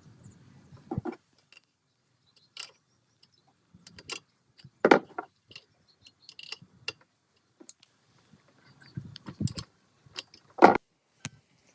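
Metal parts clinking and knocking as they are handled, in irregular separate strikes, the loudest about five seconds in and near the end.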